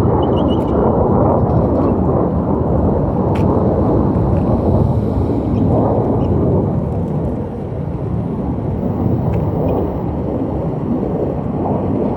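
Loud jet roar of Air Force Thunderbirds F-16 fighters flying over, a deep rumbling that eases slightly about eight seconds in.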